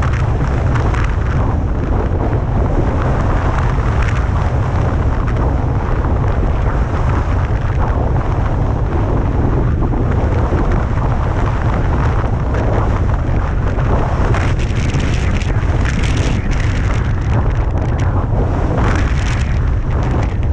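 Gusty blizzard wind buffeting the microphone in a loud, steady low rumble, with surges of higher hissing noise in the second half.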